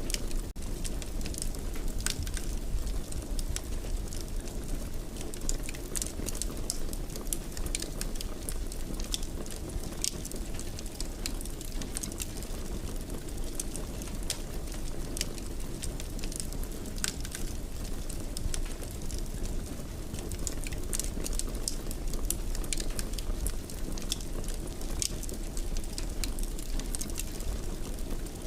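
Wood fire crackling in a fireplace: a steady low rumble of flames with scattered sharp pops and crackles, a few every second.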